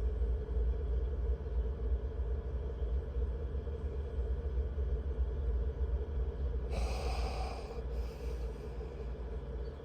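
Train coming through town, heard as a steady low rumble with a constant hum. About seven seconds in, a brief hissing burst lasts about a second.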